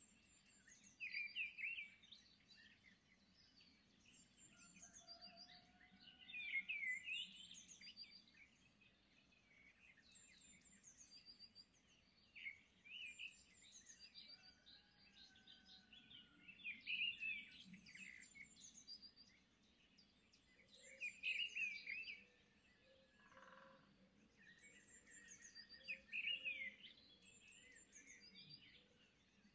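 Faint birdsong: small birds chirping in short bursts that recur every four or five seconds, with a few soft whistled notes in between.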